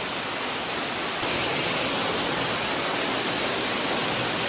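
Waterfall rushing: a steady, even roar of falling water that gets slightly louder about a second in.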